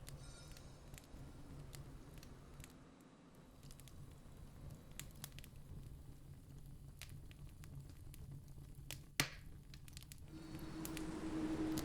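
Campfire crackling softly with scattered small pops and one sharp, louder snap about nine seconds in. Near the end a steady low drone and a louder rush of noise set in.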